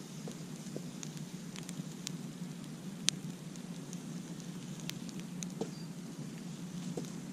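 Campfire crackling: scattered sharp pops and snaps over a steady low rush of burning, with one louder pop about three seconds in.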